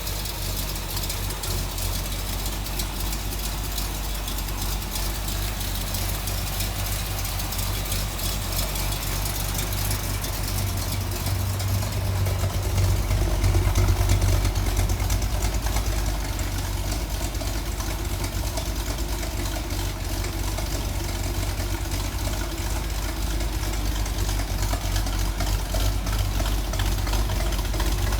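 Jasper 350 crate small-block V8 in a 1964 Corvette chassis running at a steady idle, getting louder for a few seconds about halfway through before settling back.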